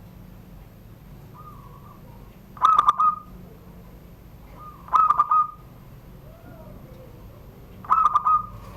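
Zebra dove (perkutut) cooing in the classic 'surung gedor' song style: three short phrases of quick, clipped notes, a few seconds apart, each one loud.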